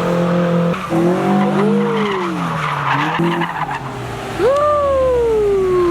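Car engine revving hard while its tyres squeal and skid through a slide: the revs climb and drop a couple of times, with a sharp rev-up about four seconds in that slowly falls away.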